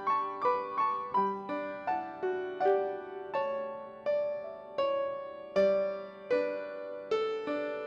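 Solo piano playing a slow, gentle melody over held chords, about two notes a second, each note struck and then ringing away.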